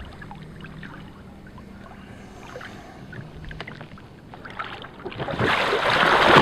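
Water sloshing and splashing around a capsized Sea Eagle Explorer 380x inflatable kayak as a swimmer rights it from the bow or stern. A louder splashing rush builds from about five seconds in as the hull comes over onto the water.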